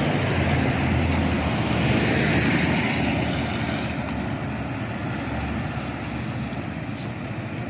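A motor vehicle passing close by: engine and tyre noise swell to a peak about two seconds in, then fade away.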